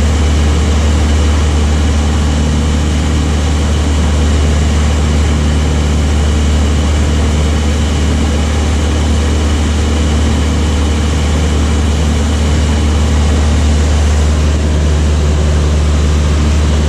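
Light propeller aircraft's piston engine running at a steady drone, with a strong low hum.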